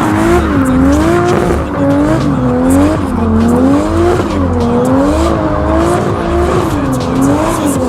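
Toyota Supra Mk4's engine revved hard and let off over and over, its pitch swinging up and down about once a second.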